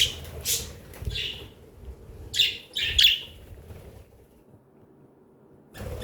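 Pet budgerigars giving several short, harsh chirps in the first three seconds, the loudest about three seconds in, with wings fluttering, and another brief call near the end.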